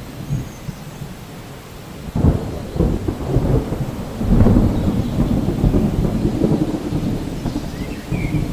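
Steady rain with a roll of thunder: a deep rumble breaks out about two seconds in, swells again about four seconds in, and eases slightly near the end.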